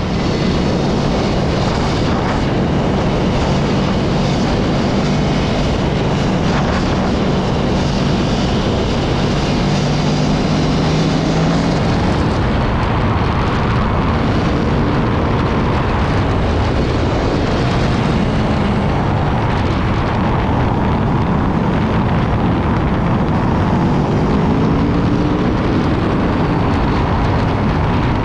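Motorcycle engine running under way over heavy wind rush. The engine note holds steady for about the first twelve seconds, then changes, and its pitch rises and falls near the end.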